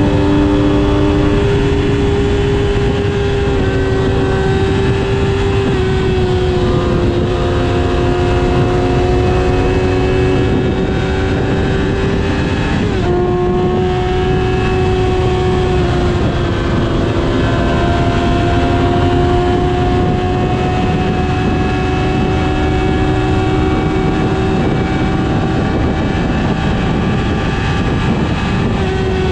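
Motorcycle engines running steadily at speed, heard on board a Yamaha R6 under loud wind rush. The engine note holds, dipping and shifting slightly a few times.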